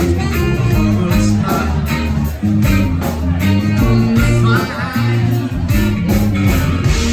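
Live band playing a rock song, with guitar over a steady beat.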